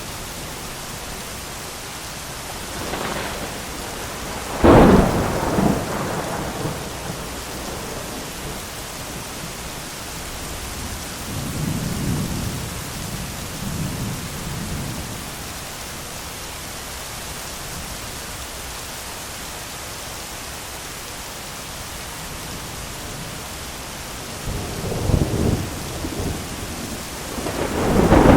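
Thunderstorm: steady heavy rain with rolling thunder. A sharp, loud thunderclap about five seconds in, softer rumbles in the middle, and another loud crack with rumbling near the end.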